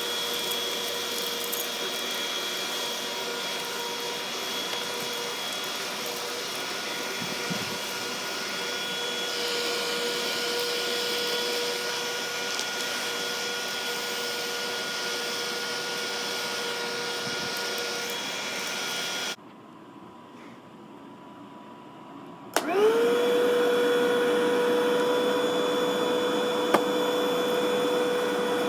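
Black & Decker vacuum cleaner motor running with a steady whine. It cuts off about two-thirds of the way through, then a few seconds later switches back on and spins up to speed.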